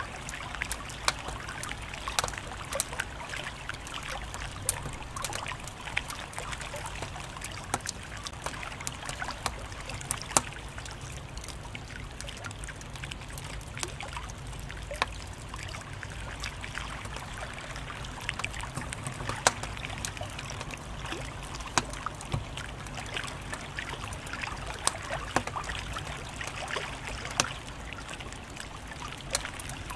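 Wood fire crackling, with many irregular sharp pops and snaps over a steady hiss and low rumble.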